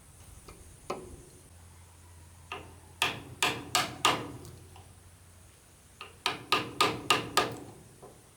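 Hammer blows on wood: a few single knocks, then a quick run of four about three seconds in and another run of about six near the end, some three blows a second.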